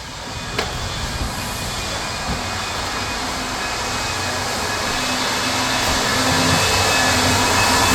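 Floor sander running on a hardwood floor during the first, coarse-grit sanding pass, a steady grinding hum that grows gradually louder.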